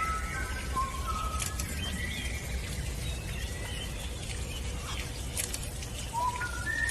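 Birds calling: short, thin whistled notes scattered through, over a steady low background noise.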